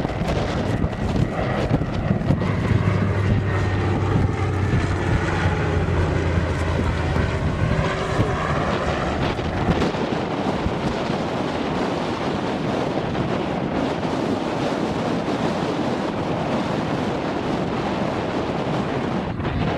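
Aircraft engine running as a display aircraft flies past, its low hum and shifting higher whine fading about nine seconds in. After that, only wind buffets the microphone.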